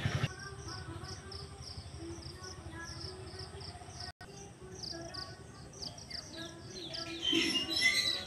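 Birds chirping in a garden: a high chirp repeating about three times a second, with a louder flurry of bird calls near the end. A low engine rumble cuts off just after the start.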